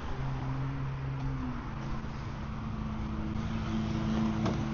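A motor vehicle's engine running steadily with a low hum, its pitch shifting slightly about a second and a half in.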